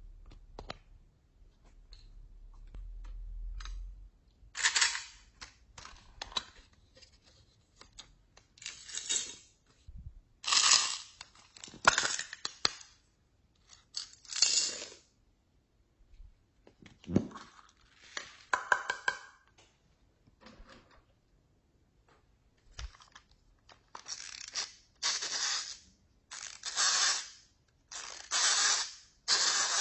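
Slime being worked and mixed by hand: a run of short, irregular crackling bursts, each under a second, with a few quiet pauses.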